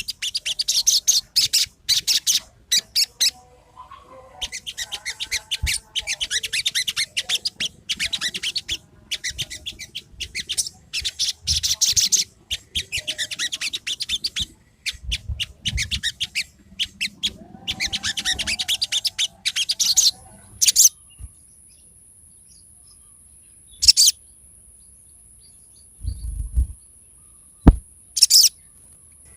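Sogon (crimson sunbird) song played as a lure recording to get a bird that won't sing to start: bursts of fast, high twittering chirps for about twenty seconds. The song then stops, leaving a steady high hiss with a few single chirps, a low thump and a click near the end.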